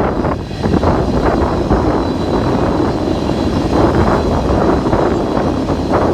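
Loaded crude oil freight train rolling past with a steady rumble, overlaid by strong wind buffeting the microphone.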